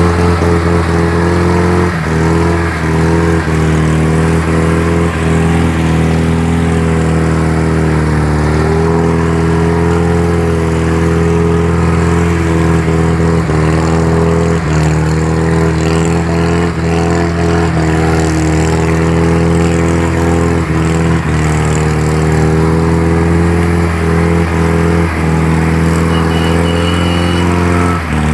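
GAZ-66 truck engine running hard at steady high revs, its pitch dipping and rising a little as the load changes, with frequent short knocks and clatters over it.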